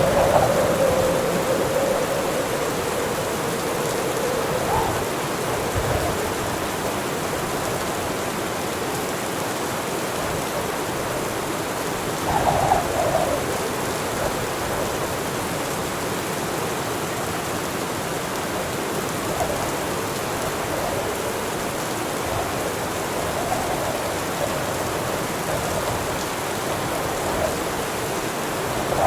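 Heavy rain falling steadily, with occasional thunder: brief louder swells, the clearest a little under halfway through.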